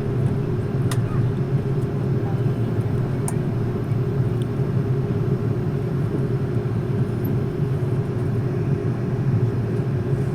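Steady low rumble and hum inside an Airbus A330-300 cabin before takeoff, from the engines at low power and the cabin air system, with a couple of faint clicks in the cabin.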